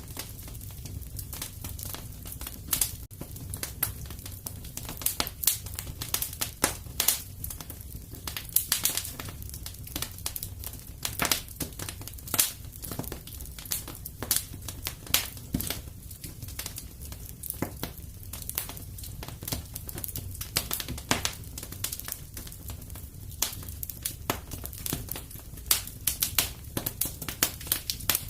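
Fireplace wood fire crackling, with frequent irregular sharp pops and snaps over a steady low rumble of burning.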